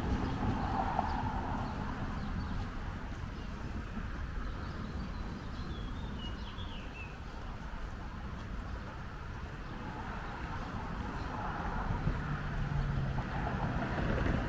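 Outdoor ambience of a steady low traffic rumble that eases off mid-way and builds again towards the end, with a few short bird chirps about six seconds in.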